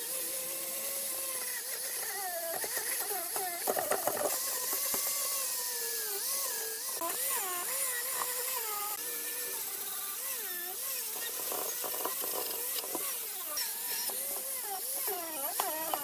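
Small power tool whining, its pitch wavering up and down over and over as the load on it changes, with a few short clicks.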